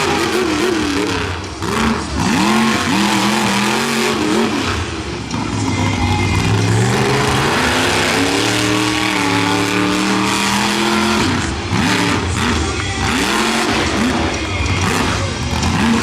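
Monster truck's supercharged V8 engine revving hard, its pitch surging up and falling back again and again, with brief drops in throttle.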